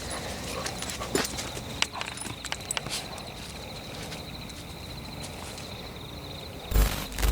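Footsteps on forest ground: scattered crackles and snaps of leaves and twigs underfoot, over a steady high-pitched trill. Near the end come a few heavy thuds.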